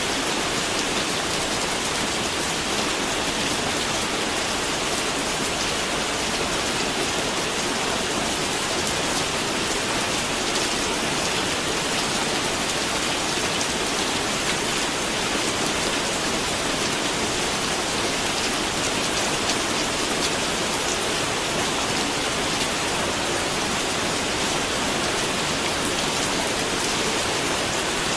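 Steady rain falling on a surface, an even hiss with many small drop ticks, no change in strength.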